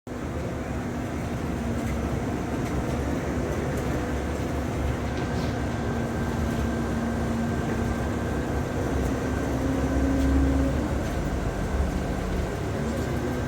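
A steady low rumble with a droning engine hum that rises a little in pitch and swells about ten seconds in, then falls back.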